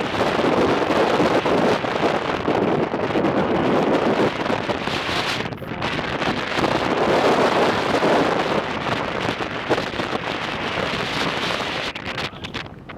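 Strong, gusty wind buffeting the camera's microphone, a loud rushing noise that eases briefly about halfway through and again near the end.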